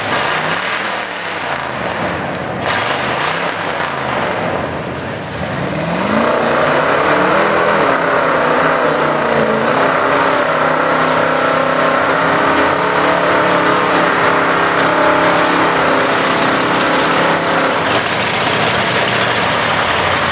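Mud truck's engine revving up and down a few times, then climbing to high revs about five seconds in and held at full throttle for over ten seconds while the truck ploughs through a deep mud pit, easing off near the end.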